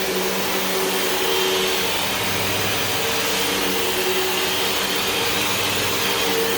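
Hoover WindTunnel 2 Whole House Rewind upright vacuum cleaner running steadily, a constant motor hum with a high whine over it.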